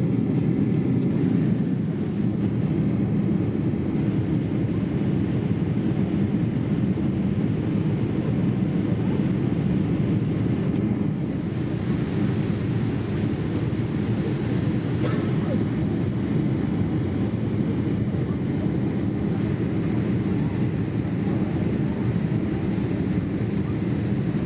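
Steady in-flight cabin noise of a Boeing 787-8 airliner: a constant low rush of airflow and engine noise, with one faint click about fifteen seconds in.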